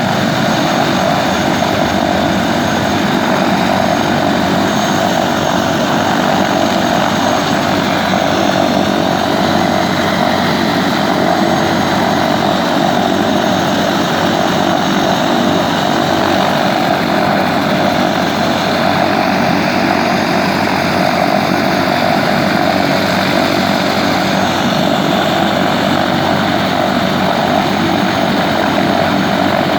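Helicopter engine and rotor noise, running steadily without change.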